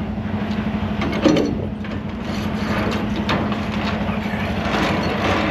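Metal clanks and rattles of trailer hardware being handled, with a sharp knock about a second in, over the steady hum of the idling truck.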